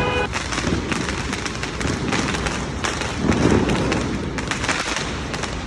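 Fireworks going off in a dense run of sharp pops and crackles.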